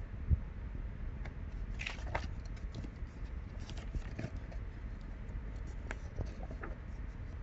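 Scattered small clicks and scrapes over a steady low rumble, with one sharper thump about a third of a second in.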